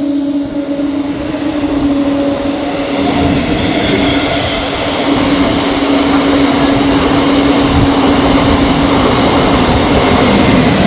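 Electric MEMU train passing close by: a steady hum with the rumble and clatter of wheels on rail building from about three seconds in and staying loud.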